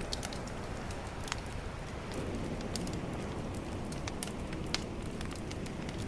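Bonfire crackling, with frequent irregular sharp pops and snaps over a steady low wash of calm ocean waves.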